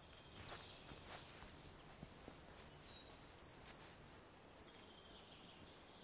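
Near silence: faint outdoor ambience with distant birds singing in short high chirps.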